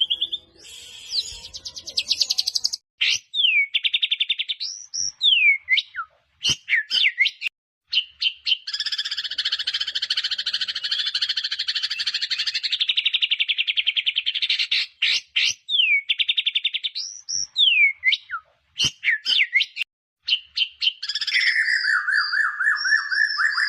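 White-rumped shama (murai batu) singing a varied, full song: rapid trills, sharp downward-sliding whistles and a long buzzy rattling phrase, broken by a few short silent gaps.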